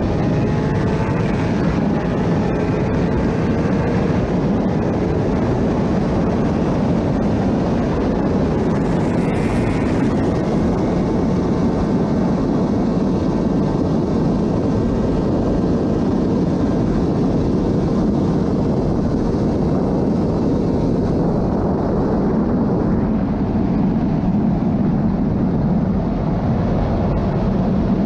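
Superbike held near top speed on a flat-out run: the engine runs steadily, buried under a loud, constant rush of wind.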